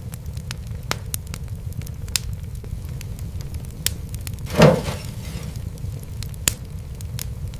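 Fireplace fire crackling: scattered sharp pops and snaps over a steady low rumble, with one louder, longer crackle about four and a half seconds in.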